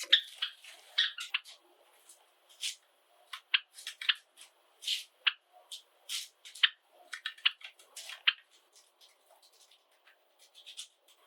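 Pet Java sparrows making a busy, irregular run of short chirps and sharp clicks, several a second.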